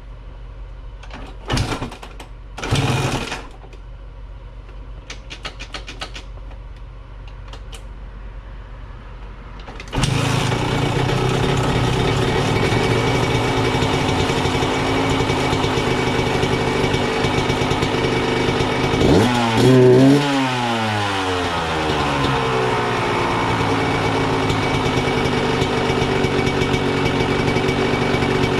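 Motorcycle being kick-started: two short thumps in the first few seconds, then about ten seconds in the engine catches and runs steadily, with one quick rev rising and falling around two-thirds of the way through. It starts and runs with the freshly repacked exhaust not clogged.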